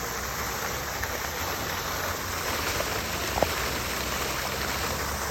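Garden fountain water splashing and falling in a steady hiss. A brief short note sounds about three and a half seconds in.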